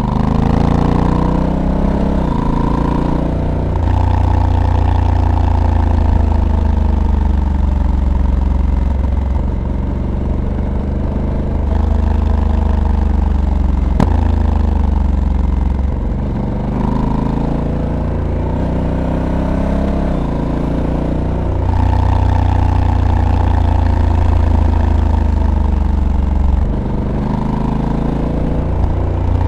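Honda Africa Twin's 1084 cc parallel-twin engine pulling on the move, its pitch climbing and dropping again and again as the dual-clutch transmission shifts gears, with a stretch of falling revs in the middle.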